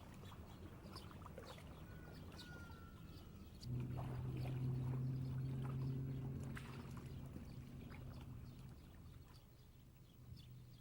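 A low-pitched horn blast from a Detroit River car ferry, starting suddenly a few seconds in, holding for about five seconds and then fading, over a low steady rumble, with birds chirping.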